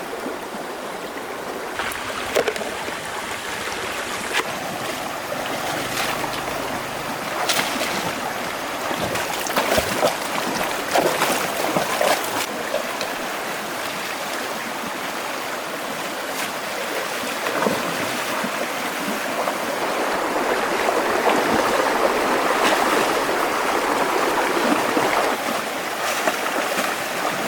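Water sloshing and splashing, with scattered sharp splashes or knocks through the first half and a fuller rush of water near the end.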